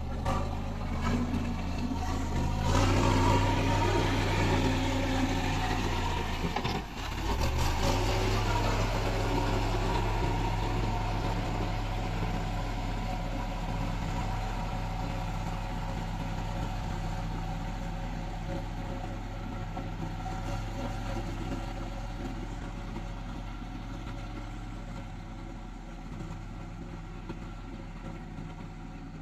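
Diesel engine of a heavy road-construction machine running. It is louder for the first several seconds, dips briefly about seven seconds in, then runs steadily and slowly grows fainter.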